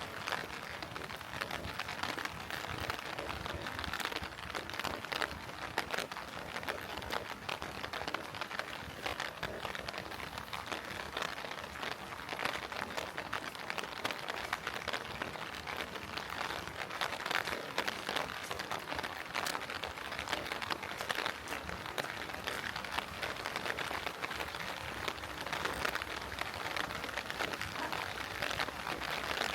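Steady heavy rain: a dense patter of close drop hits over an even hiss.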